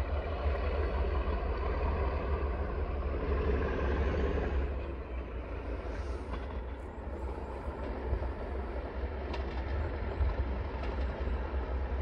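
Heritage train approaching along the line from a distance, a steady running rumble, with wind rumbling on the microphone.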